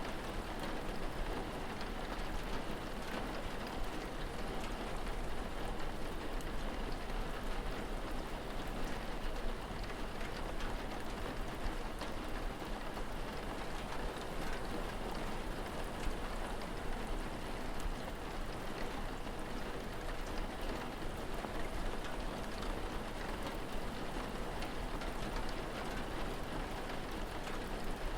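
Steady rain falling, an even patter of drops on surfaces with fine scattered ticks.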